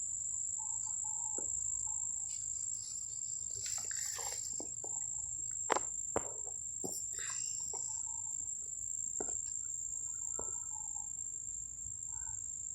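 Steady high-pitched trill of insects running without a break, with scattered soft clicks and rustles and two sharp taps about six seconds in.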